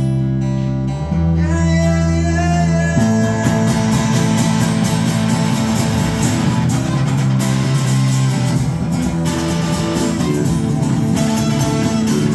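Live band playing an instrumental passage: strummed guitars over sustained bass notes with a steady rhythm, thickening about three seconds in.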